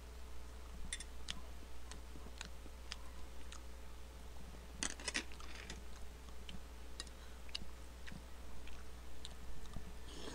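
A man chewing and eating soft rice with a spoon, with wet mouth sounds and scattered light clicks of the spoon against the bowl; a quick cluster of clicks comes about five seconds in.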